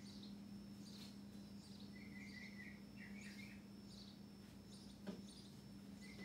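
Faint bird chirps, in short repeated bursts, over a steady low hum, with a single sharp click about five seconds in.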